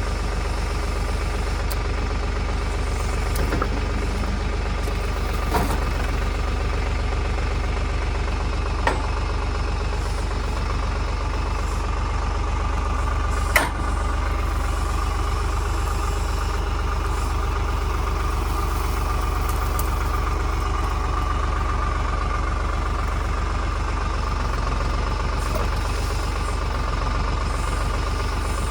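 Tractor engine running steadily, with a few sharp knocks, the loudest about halfway through.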